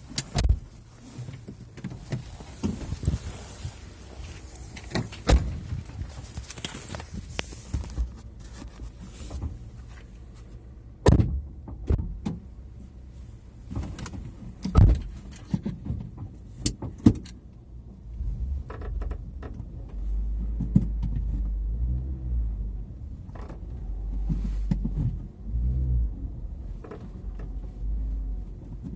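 Creaking and knocking from the trunk area of a Hyundai Elantra, heard from the rear parcel shelf: sharp creaks come every few seconds, more a creak than a knock. A low rumble joins about two-thirds of the way in. The creak is not reproduced by rocking the car, so its cause is still unknown.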